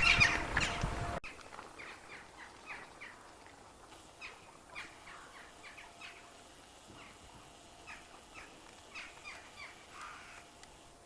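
A flock of crows calling, many short overlapping caws. The calls are loud for about the first second, then drop abruptly to fainter, scattered calls that keep going.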